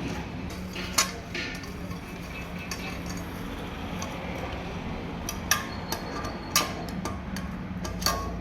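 Metal tools and engine parts clinking as they are handled during motorcycle engine repair work, with a few sharp metallic clinks at about one, five and a half, six and a half and eight seconds, over a steady low hum.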